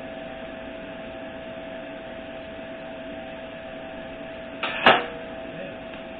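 A steady hum throughout, broken near the end by one short, sharp clack of a tool or metal part being handled.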